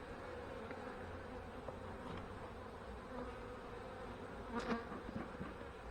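Honey bees buzzing steadily around an opened hive, with a brief scrape of a hive tool clearing wax from the frames about four and a half seconds in.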